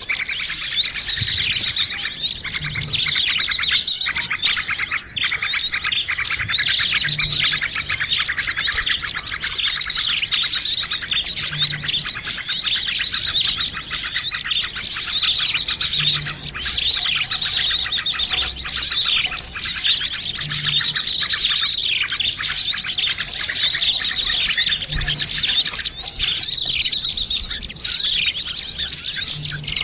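A dense chorus of many small birds chirping and twittering at once, a continuous overlapping jumble of high chirps and trills. It is a bird-lure (pikat) recording of noisy small birds, played to attract wild birds.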